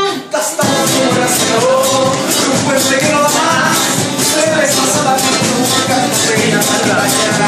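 A band playing an instrumental passage, with a steady rhythm of high, rattling percussion over pitched instruments; the music drops out briefly about half a second in, then carries on.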